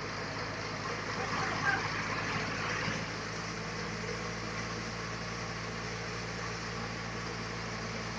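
Sawmill machinery running steadily with an engine hum, growing louder and rougher for a couple of seconds about a second in.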